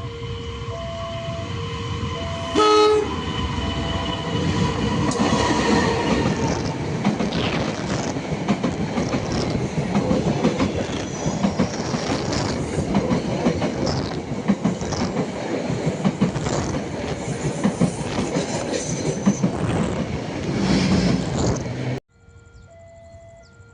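Level-crossing alarm ringing in two alternating tones, then a short blast of the locomotive horn about three seconds in, followed by a train passing close by with a heavy rumble and repeated wheel clacks over the rail joints. The train sound cuts off suddenly near the end, giving way to quiet music.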